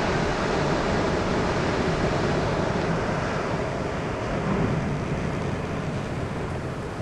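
Wind buffeting the camera's microphone: a steady rushing noise with low fluttering rumble.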